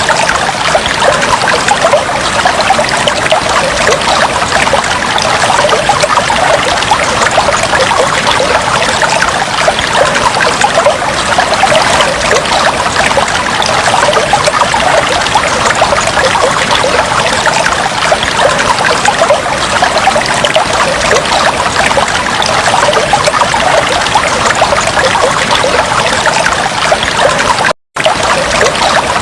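Fish tank water trickling steadily, a dense stream of small splashing crackles. It cuts out for an instant about a second and a half before the end.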